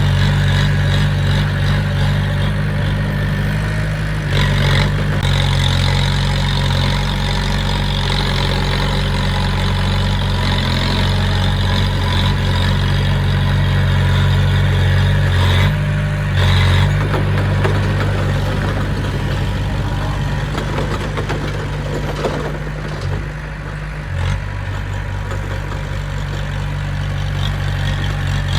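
Heavy machine's diesel engine running steadily with a deep hum, its note and load shifting briefly a few times.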